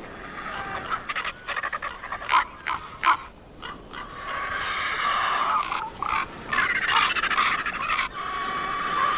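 Ravens and griffon vultures calling harshly while squabbling over a carcass: a run of short rasping calls, then longer hoarse, grating stretches.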